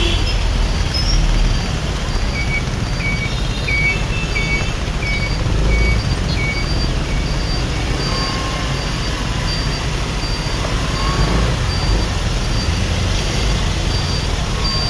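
Steady road traffic and motorcycle engine rumble heard while riding, with a short high electronic beep repeating at about three beeps every two seconds throughout. A second, lower beep joins at the same pace for a few seconds near the start.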